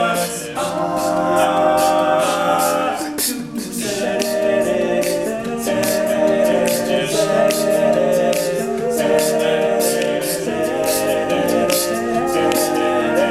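All-male a cappella group singing wordless sustained backing chords, with a steady beat of vocal percussion.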